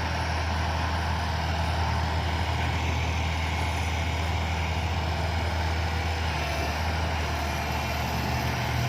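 Six-wheel dump truck loaded with soil, its 210-horsepower diesel engine running at a steady pitch.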